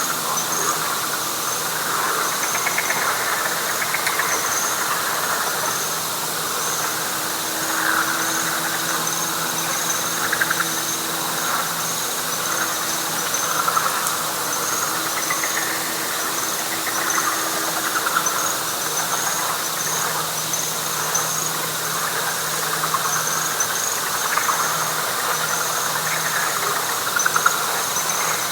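Night chorus of frogs and insects: a dense, rattling, mid-pitched frog chorus, with high insect chirps repeating at a regular pace above it. A faint low steady hum runs underneath.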